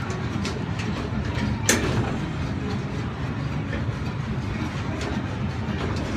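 Small amusement-park ride train rolling along its track, heard from an open passenger car: a steady rumble with irregular clicks from the wheels and rails, and one sharp clank about two seconds in.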